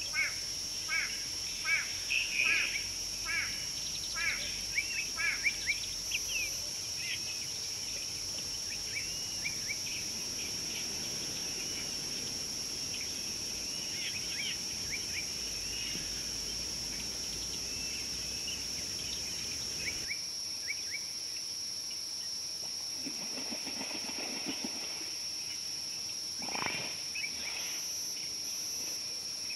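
Birds chirping in quick repeated short calls for the first several seconds, then more sparsely, over a steady high-pitched whine. Near the end comes one brief sweeping animal call.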